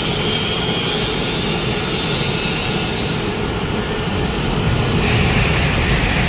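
Wood pellet production line machinery running steadily: a loud, continuous mechanical noise that swells slightly about five seconds in.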